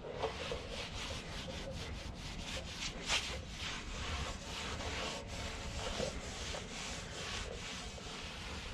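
Cloth rag being rubbed by hand over an aluminium fuel tank, wiping off metal polish in quick repeated strokes, a few a second.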